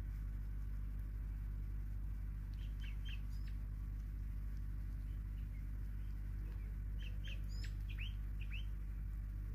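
Small birds chirping: two short runs of quick, high, sharp notes, about three seconds in and again near the end, over a steady low hum.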